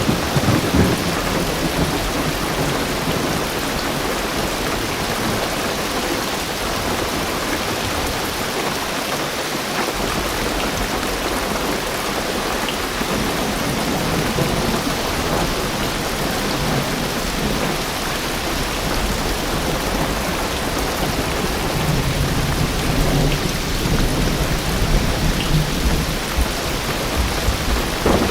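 Heavy rain drumming on a car's roof and windows, a dense steady hiss, with low thunder rumbling underneath that fades for a few seconds and comes back heavier near the end.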